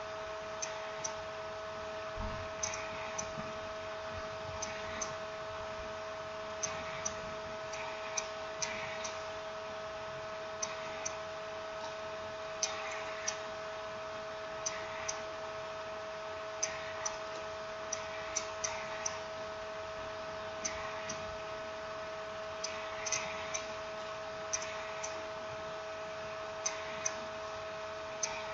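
Irregular light clicks and taps from handling small tools and smartphone parts during reassembly, heard over a steady electrical hum.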